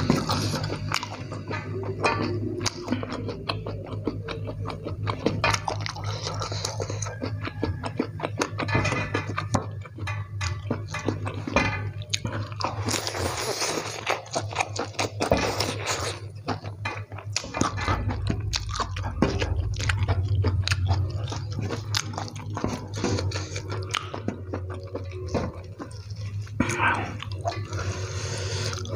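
Close-up eating sounds: a man chewing fried instant noodles with raw lettuce, with many quick wet mouth clicks and smacks and a louder bite about thirteen seconds in.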